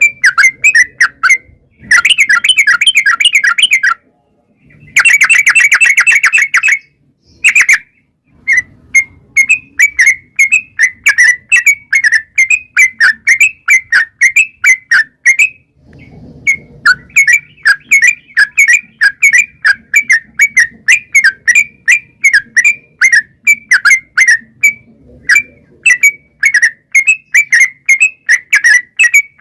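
Yellow-vented bulbul (trucukan) song: two fast rolling runs of notes early on, then a steady string of short chirps, two to three a second. This is the long rolling 'ropel' song played as a lure to set other bulbuls singing.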